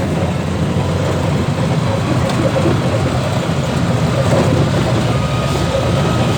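Steady engine and road rumble of a moving intercity bus. A faint thin whine joins about five seconds in.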